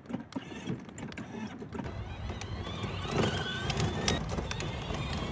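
Hikole two-seater kids' electric ride-on car driving, its electric motors whining over the rumble of the wheels rolling; the sound builds from about two seconds in.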